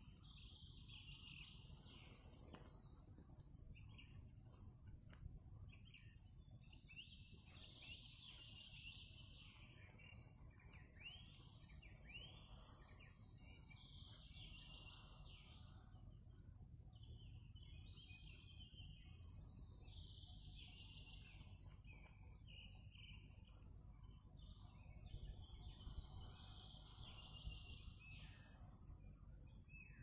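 Faint songbirds singing in a wet forest, many short phrases overlapping throughout, over a steady low rumble.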